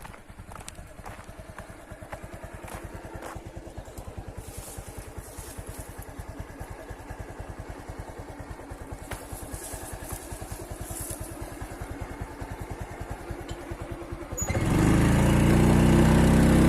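Small engine running with a fast, even putter of exhaust pulses, slowly growing louder. Near the end a much louder, steady droning sound with several held tones suddenly takes over.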